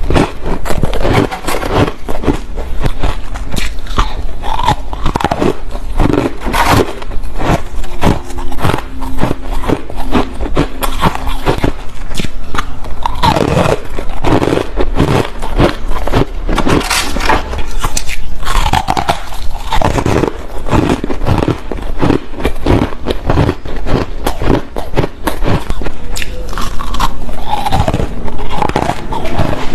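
Close-up biting and chewing of squeaky, fluffy ice: a continuous, irregular run of crisp crunches.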